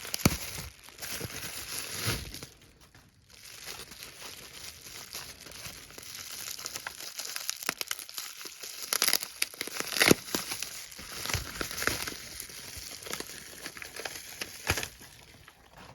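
Plastic packaging crinkling and rustling as a boxed model engine is unwrapped, with irregular sharp crackles and a short lull about three seconds in.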